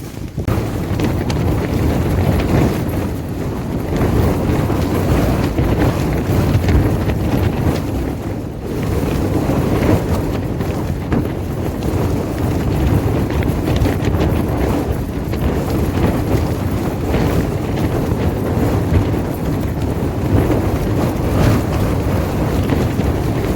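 Storm-force wind gusting hard, rising and falling, with heavy wind rumble on the microphone.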